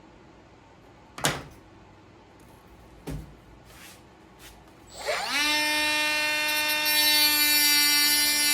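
A couple of sharp knocks on the bench, then an electric power tool's motor switches on about five seconds in. Its whine rises quickly in pitch and settles into a loud, steady running tone.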